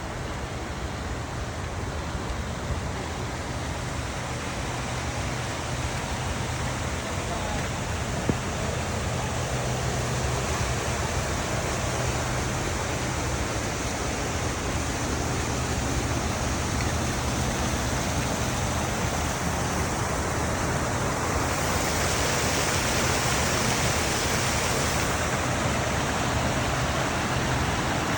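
Steady rushing of water on a flooded street, with a low steady hum underneath. The hiss turns brighter for a few seconds about three-quarters of the way through.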